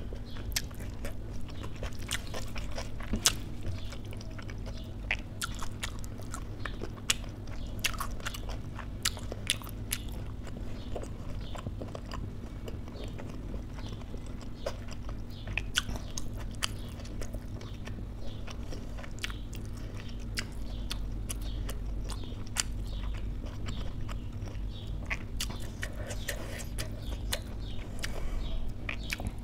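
Close-miked chewing and wet mouth sounds, with many small sharp clicks, from someone eating soft food with her hand. Her fingers squish and scrape the food on a steel plate, over a steady low hum.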